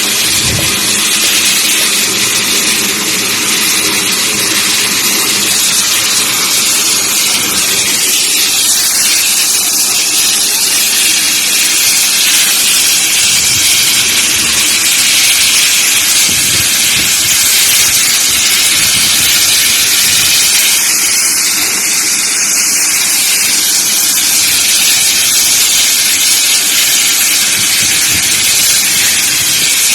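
Steam locomotive 7029 venting steam: a loud, steady hiss with a faint low hum underneath.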